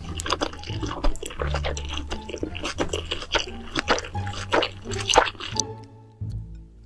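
Close-miked wet chewing and smacking of a large mouthful of food, with many sharp mouth clicks, over background music with a low bass line.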